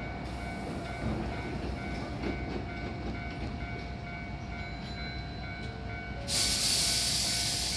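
Hankyu 8000 series electric train standing at the platform with a steady hum. About six seconds in comes a sudden loud rush of compressed-air hiss from the train's pneumatics, which then slowly fades as it gets ready to depart.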